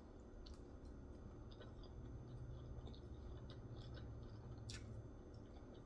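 Quiet chewing with a few soft, scattered clicks over a low steady hum.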